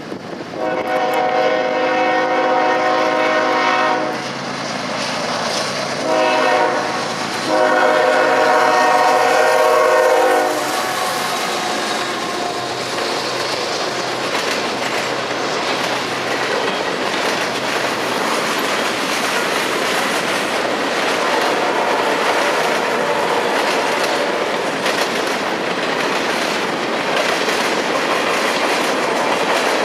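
Diesel freight locomotive horn sounding a long blast, a short one and another long one over the first ten seconds, then the train rolling past with steady wheel clickety-clack.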